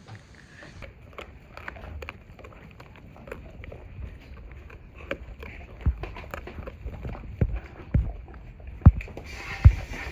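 Leonberger dogs eating raw meat and bones, with a busy run of crunching, cracking and chewing clicks. Heavy thumps come every second or so in the second half.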